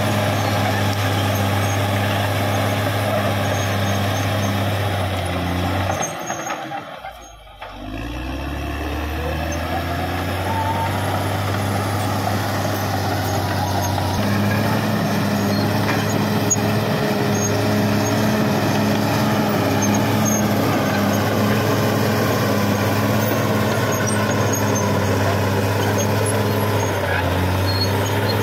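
CAT D6R XL bulldozer's diesel engine running steadily under load. It drops away briefly about a quarter of the way in, then rises back up and holds steady.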